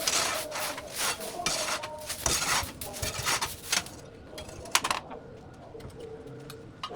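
Repeated rasping, scraping strokes, close together for about four seconds, then a quieter stretch with a few scattered clicks.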